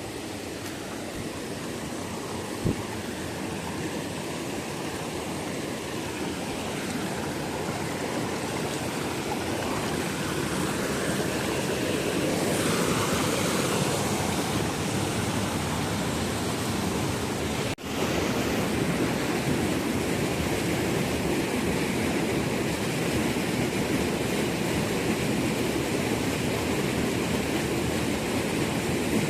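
Steady rushing of water that grows louder over the first dozen seconds, with a short click a few seconds in and a brief dropout about two-thirds of the way through.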